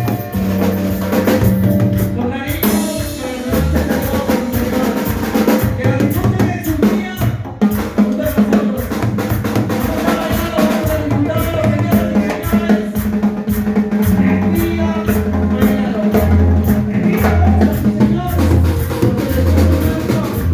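Latin dance band music with a drum kit, bass and percussion playing a steady, driving beat.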